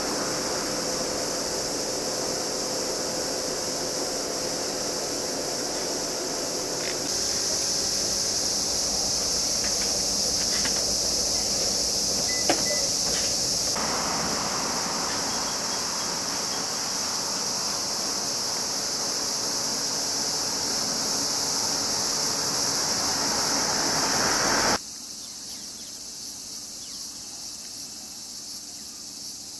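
Steady, shrill chorus of summer insects, high-pitched and unbroken. It changes abruptly a few times and drops much quieter about 25 seconds in. A single sharp click comes at about 12 seconds.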